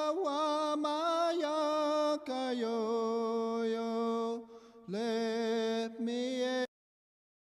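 A single voice chanting in long, held notes with vibrato, pausing briefly for breath a few times and then cutting off abruptly near the end.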